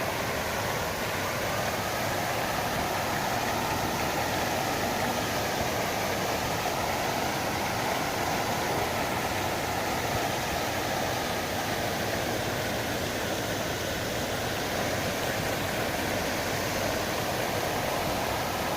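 Water from a fountain falling in a steady, even rush.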